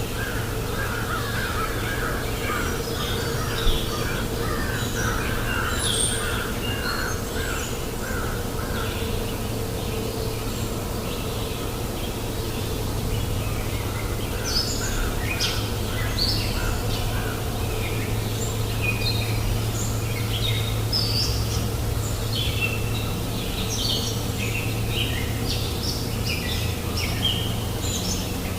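Several wild birds chirping and calling, with quick repeated notes and some harsher calls, over the steady rush of flowing river water. There is a single short knock a little under four seconds in.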